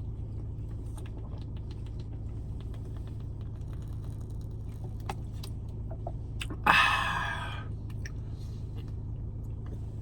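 Quiet eating-break sounds: faint clicks and handling noises over a steady low hum. About two-thirds of the way through, one loud sound lasting about a second rises and then fades away.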